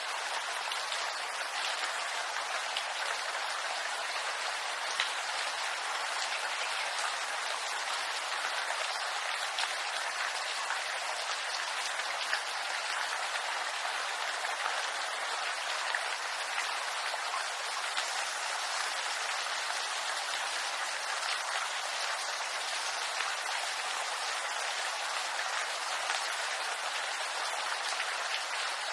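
Steady rain falling in a bamboo grove: an even, dense patter of drops with many small individual drop ticks scattered through it.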